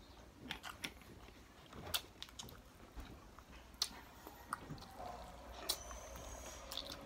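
Close-up mouth sounds of a person chewing fried chicken and rice, with scattered small wet clicks and smacks. A faint steady tone sounds in the background from about five seconds in.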